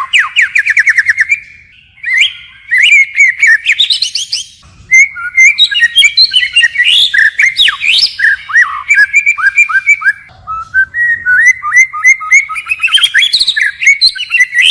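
White-rumped shama singing a long, varied song of quick rising and falling whistles and fast trills, switching from one phrase to the next with only short pauses.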